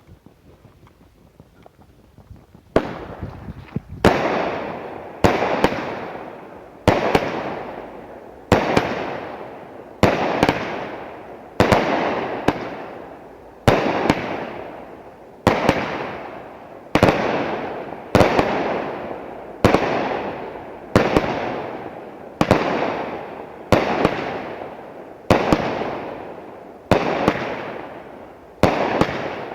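A 25-shot 200-gram strobe fireworks cake firing shot after shot, starting about three seconds in and going off roughly every one to one and a half seconds. Each shot is a sharp bang followed by a long fading crackle of strobe stars.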